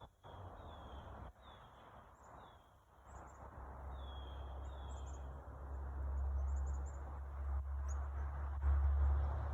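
Small birds chirping in short, repeated falling notes, over a low rumble of road traffic that grows steadily louder through the second half.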